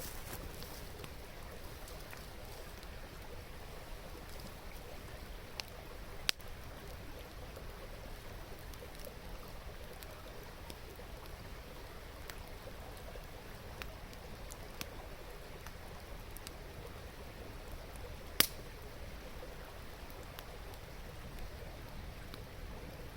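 Wood fire crackling, with scattered sharp pops, the two loudest about six and eighteen seconds in, over the steady babble of a river.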